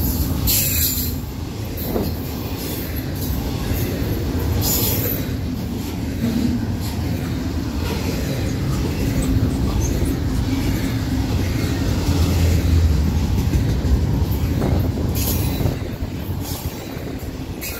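Double-stack intermodal freight train of container well cars rolling past close by: a steady low rumble of wheels on rail, swelling for a moment about three-quarters of the way through, with three brief high-pitched wheel squeals.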